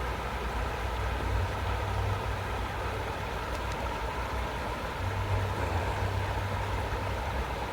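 A motor running steadily: a low, even rumble with a faint steady whine above it.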